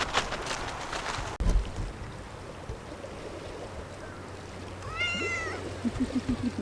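A domestic cat meows once, a short call that rises and falls in pitch, about five seconds in. Light crunching sounds come in the first second or so.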